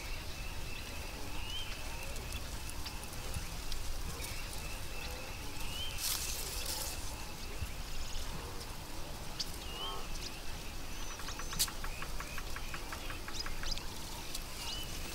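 Natural outdoor ambience: birds chirping over a steady high drone. There is a short hiss about six seconds in and a fast rattling trill a little after eleven seconds.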